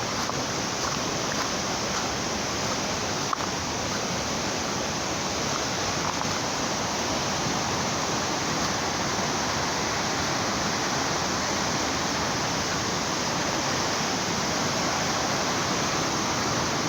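Steady rush of fast-running water.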